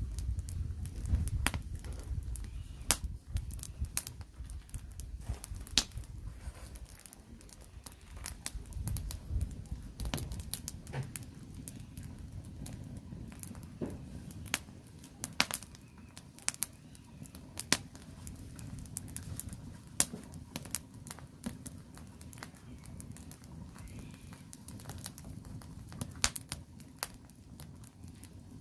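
Firewood burning: crackling with irregular sharp pops and snaps, over a low rumble that is stronger in the first ten seconds or so.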